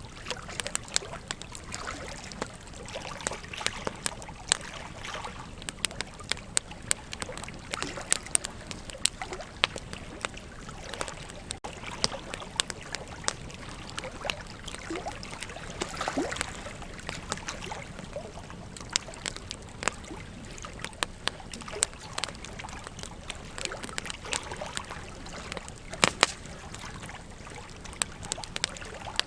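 Wood campfire crackling with frequent sharp pops, a louder pair near the end, over the steady rush of flowing river water.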